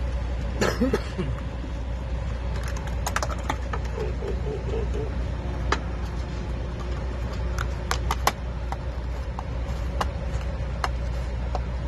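Clear plastic wiper-blade packaging being handled and pressed shut, with scattered clicks and crinkles over a steady low rumble.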